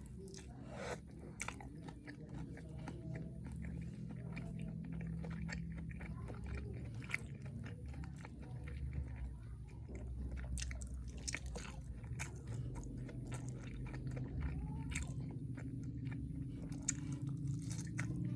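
Close-up eating sounds of fried milk tofu: crisp bites and wet chewing, with many small sharp clicks and crunches all through.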